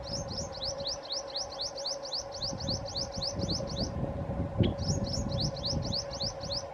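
A bird calling a fast series of short, high, falling chirps, about six a second, in two runs with a brief pause about four seconds in. A steady hum and a low rumble run underneath.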